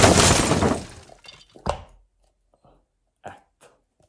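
A palm slaps the base of an upside-down plastic sour cream tub held over a ceramic bowl, knocking the sour cream out. A loud slap dies away over about a second. A sharper knock follows, then a couple of light taps near the end.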